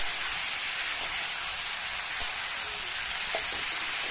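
Potato and eggplant pieces sizzling steadily in hot oil in a kadai, with a few sharp clicks of the spatula against the pan as they are stirred, the loudest right at the start.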